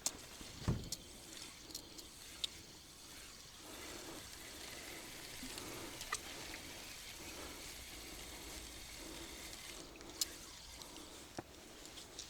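Faint water sounds with a soft swish repeating about every 0.7 s and scattered light clicks, plus one dull thump just under a second in.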